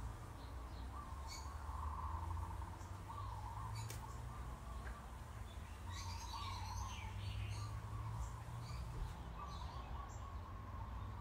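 Birds chirping, with scattered short calls over a steady low hum.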